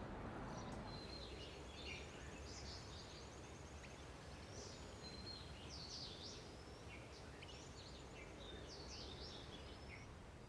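Small birds chirping and trilling on and off, faint, over a low steady background hum.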